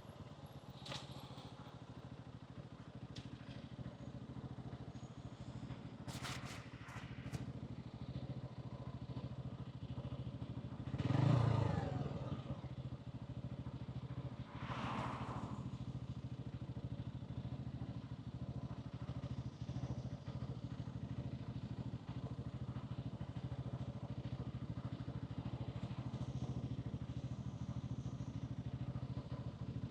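Hansom Bike 125cc motorcycle engine running steadily as it is ridden through city traffic. A louder vehicle passes close by about eleven seconds in, and another a few seconds later.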